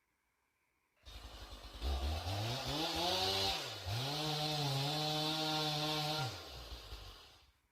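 Stihl MS 461 two-stroke chainsaw coming in about a second in, revving up to high speed, dipping briefly in pitch midway, then holding steady before the revs drop and the sound fades near the end.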